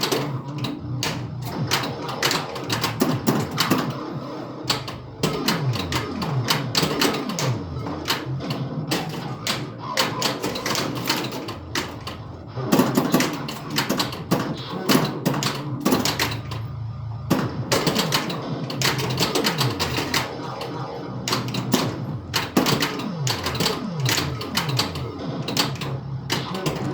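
Bally Centaur pinball machine in play: a dense, rapid clatter of flippers, pop bumpers and ball hits, mixed with the game's electronic sound effects, including repeated falling-pitch sweeps.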